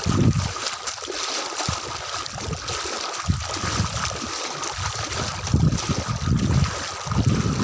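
Footsteps wading through floodwater on a road, with splashing and sloshing water and irregular low rumbles.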